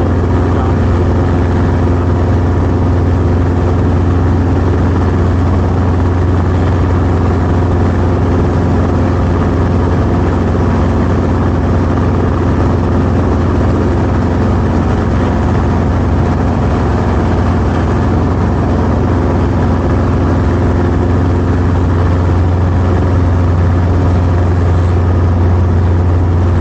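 Helicopter engine and rotor running steadily, a constant deep hum with a few steady higher tones over it.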